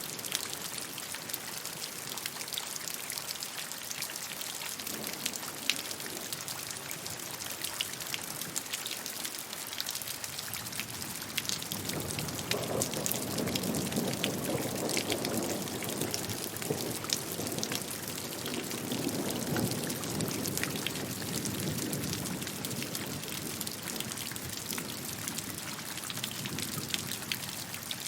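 Steady rainfall, with many separate drops heard as fine clicks over a continuous hiss. About twelve seconds in the rain grows fuller and heavier for roughly ten seconds, then eases back.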